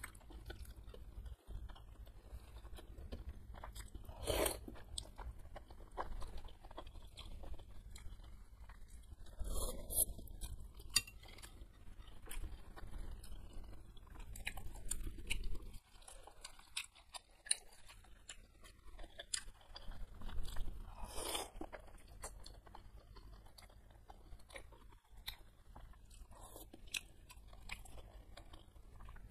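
Close-miked chewing and wet mouth sounds of someone eating thin noodles and beef meatballs in chili soup, with a few louder bursts about 4, 10 and 21 seconds in.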